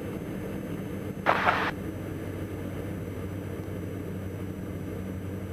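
Steady drone of the Diamond DA42 NG's twin Austro turbodiesel engines and propellers in flight, heard from inside the cockpit, with one short hiss about a second and a half in.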